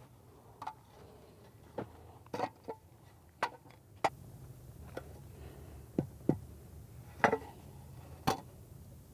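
Plastic mallet tapping a retaining-wall block to level it: about ten separate sharp knocks at irregular spacing, over a low steady hum.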